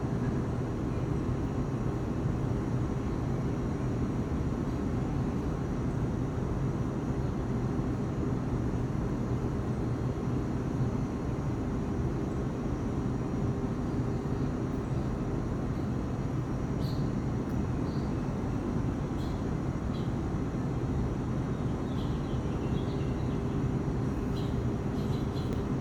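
Steady background rumble with a constant low hum, and a few faint, short high chirps in the second half.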